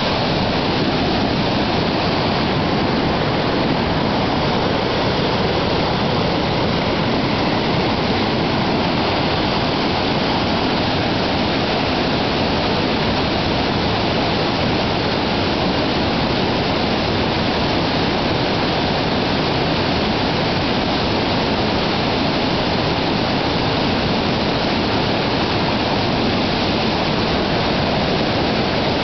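White-water rapids rushing, a loud steady wash of water noise that does not change.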